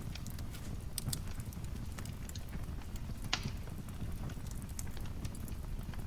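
Wood fire in a fireplace crackling: a steady low rumble of flame with scattered sharp pops and snaps, one louder pop a little past the middle.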